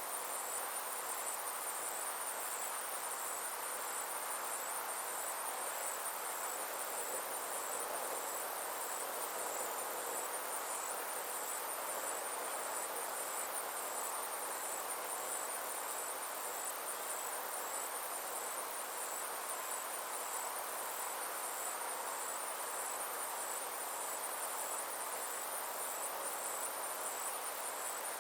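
Insects trilling in a steady, high, finely pulsing chorus, over a soft even hiss.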